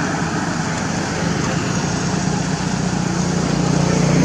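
A steady engine drone, with a constant low hum under a wash of noise.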